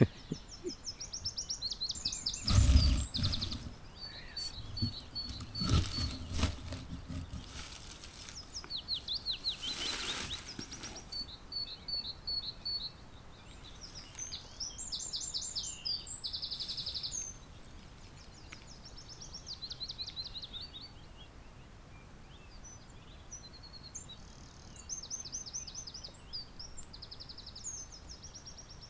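Eurasian wren singing its territorial song in repeated bursts of fast, high trills and rattling note series, with short pauses between phrases. Loud thumps and rustles close to the microphone come a few seconds in and again a few seconds later.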